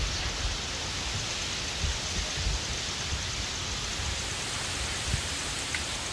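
Steady rushing hiss of wind and light rain beginning to fall, with gusts buffeting the microphone in low, uneven rumbles.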